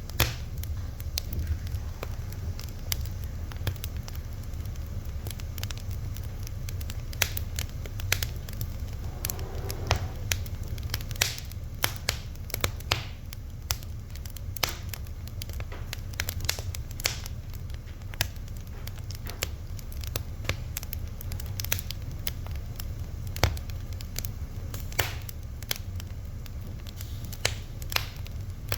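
Wood fire crackling: irregular sharp pops and snaps, some louder than others, over a steady low rumble of the burning.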